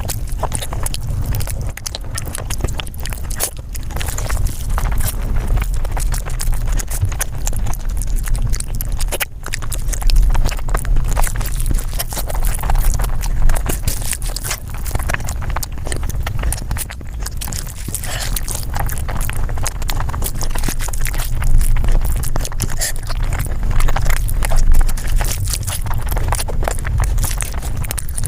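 Close-miked eating sounds sped up about five times: a dense, rapid run of chewing and crunching clicks over a steady low rumble.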